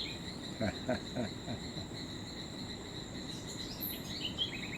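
Evening chorus of tropical insects: a steady high-pitched drone of crickets, with a short run of quick chirps about three-quarters of the way through.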